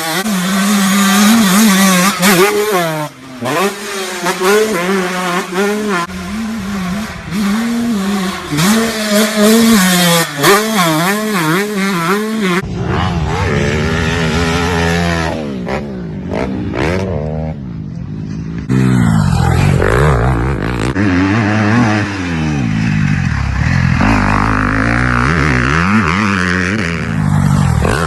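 Dirt bike engines revving up and down again and again, the pitch rising and falling with the throttle. About halfway through, the sound cuts abruptly to another recording of bikes revving.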